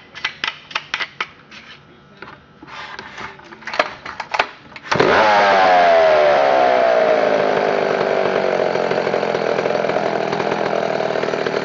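Irregular handling clicks and knocks, then about five seconds in a McCulloch two-stroke chainsaw engine starts suddenly and runs loud, its pitch falling as it settles to a steadier speed.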